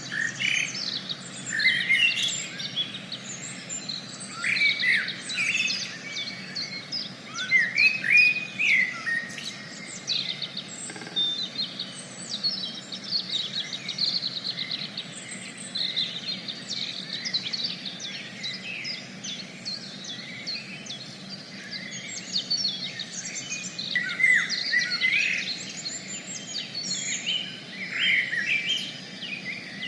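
Several birds calling and singing at once, a dense, continuous run of short chirps and trills over a faint steady background hiss.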